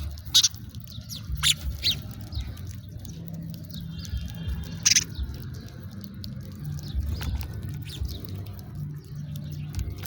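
House sparrows chirping: a series of short, sharp chirps at irregular intervals, some louder than others, over a low background rumble.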